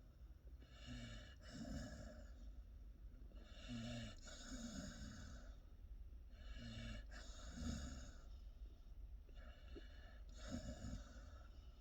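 Pit bull puppy snoring in its sleep, one breath about every three seconds, four in all. Each breath is a short, low, pitched snore followed by a longer, breathy rush of air.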